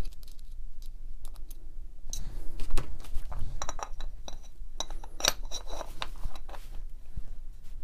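Small metal gearbox parts of a rotary hammer clicking and clinking as they are fitted together by hand, with a few short ringing metallic taps about four to five seconds in.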